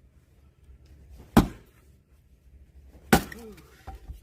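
Two heavy axe strikes splitting firewood logs, about two seconds apart, each a sharp crack with a brief ring after it.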